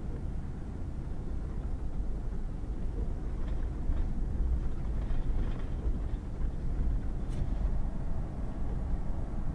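Pickup truck driving on a wet gravel road: a steady low rumble of engine and tyres, with a few faint clicks in the middle.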